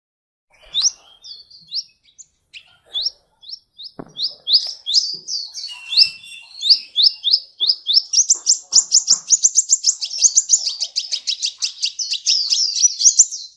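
Sunbird (the 'kolibri' of Indonesian bird-keepers) singing: sharp, high upward-flicking chirps, scattered at first and then running together into a fast, continuous trill from about eight seconds in.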